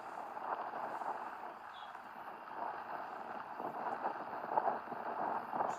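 Steady rain falling, an even dense patter of drops.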